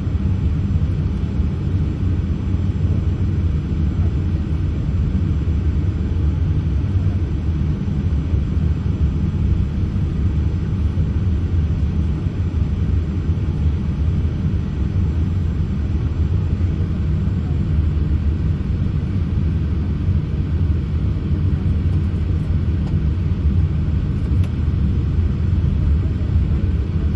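Cabin noise inside a Boeing 787-8 airliner taxiing: a steady low rumble from the engines at taxi power and the aircraft rolling along the taxiway.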